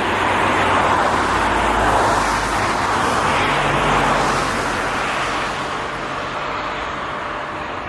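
Jet airliner engine noise, a steady rushing that is loudest over the first four seconds and then slowly fades.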